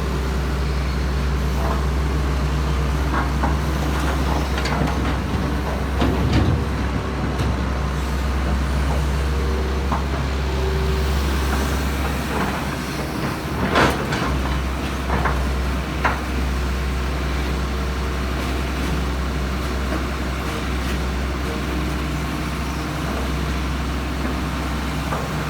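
Heavy diesel engines running steadily with a deep hum, with a few sharp knocks and clanks, the loudest about halfway through.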